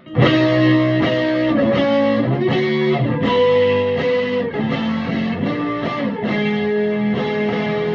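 Electric guitar played loud through a Vintage Sound Amp's plexi channel, turned up to about 9.5, on the Telecaster's front Scala humbucker: a run of ringing chords and sustained notes that change every second or so.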